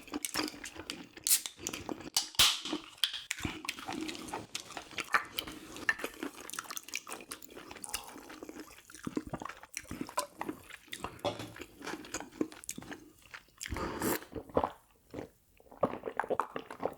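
Close-miked eating: chewing, biting and wet mouth smacks, in irregular short clicks, with a brief pause about two-thirds of the way through.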